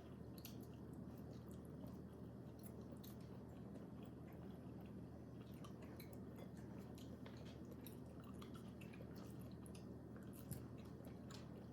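Faint chewing of a soft, chewy grilled squid snack, with many small wet mouth clicks over a low steady hum.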